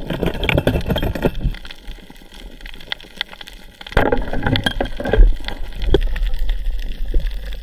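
Water sloshing and gurgling, with scattered clicks and crackles; it eases off for a couple of seconds in the middle, then grows louder again.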